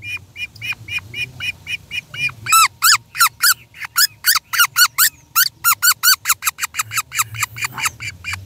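Great kiskadee nestling calling: a rapid run of short, high chirps, about five a second, becoming louder and harsher about two and a half seconds in, while it is held in the hand and botfly larvae are picked from its wing with tweezers.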